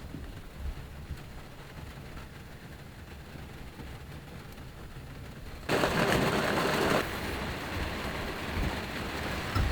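Heavy rain, steady at first with low thuds, then a sudden louder rush about six seconds in, after which the rain stays louder.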